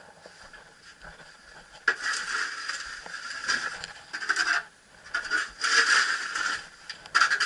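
Snow being scraped and crunched in repeated bursts with short breaks, starting about two seconds in.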